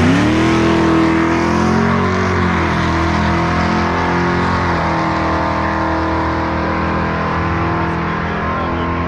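Car engine revving sharply up from idle at the start, then held at high revs, running loud and steady with small shifts in pitch.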